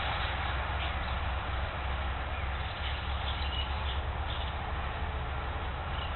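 Faint, short bird chirps scattered over a loud, steady low rumble and hiss.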